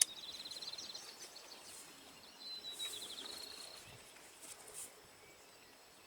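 A songbird singing twice, each song a held high whistled note running into a fast trill, over faint outdoor background noise. A sharp click sounds at the very start.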